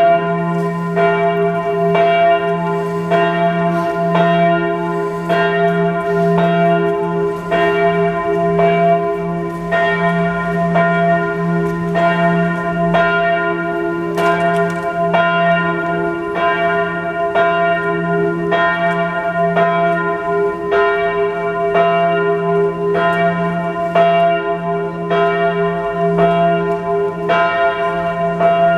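Church bells pealing: several bells swinging and striking in overlapping succession, about two strikes a second, over a steady humming resonance.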